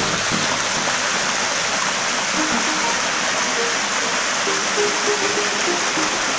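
Steady rush of a mountain stream tumbling over small waterfalls, with faint pitched notes low under the water noise.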